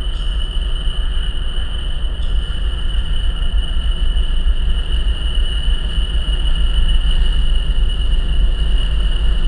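Approaching BNSF freight train: a steady low rumble that grows slightly louder toward the end, with a continuous high-pitched whine over it.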